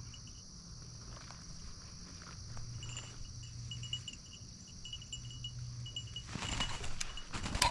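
Quiet field ambience with a steady high drone and faint, intermittent tinkling. From about six seconds in, brush and dry grass rustle louder and louder as someone pushes through the cover.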